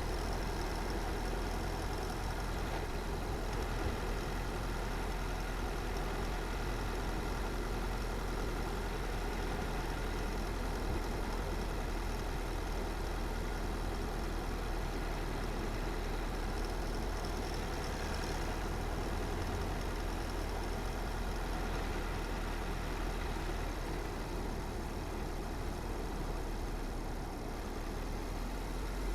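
Car driving at a steady pace: constant low engine and tyre rumble with road noise, no sudden events.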